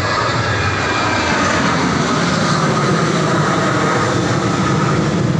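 Airplane passing low overhead: a loud, steady engine rush with a thin whining tone in it.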